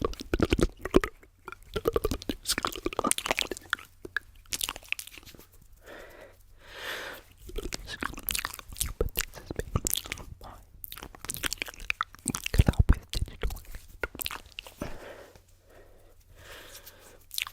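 ASMR mouth sounds layered with tapping: dense, irregular clicks and pops with a short hiss about seven seconds in.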